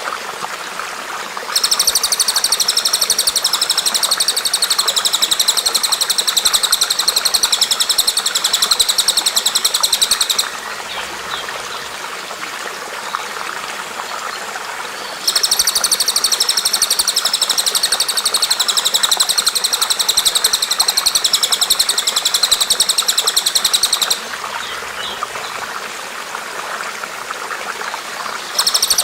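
A bird sings a long, very fast, high-pitched trill of evenly repeated notes, lasting about nine seconds each time, twice in full, with a third starting near the end. Steady running water sounds underneath throughout.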